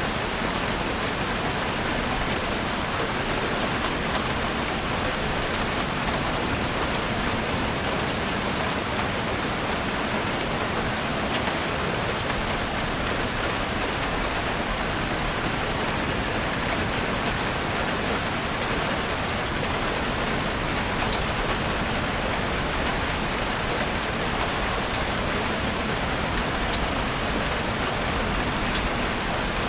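Heavy rain falling steadily on a roof: a dense, even hiss with faint scattered ticks of single drops.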